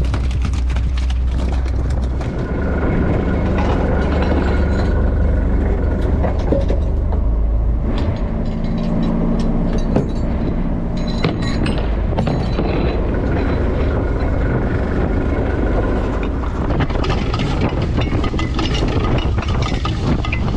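Bottom trawler's engine running steadily as a deep, loud drone, with scattered knocks and clatter over it.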